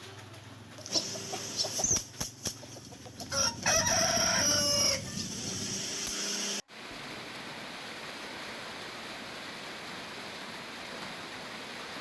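Chickens clucking, with a rooster crowing once about three and a half seconds in. The sound then cuts off suddenly and gives way to the steady hiss of tropical rain.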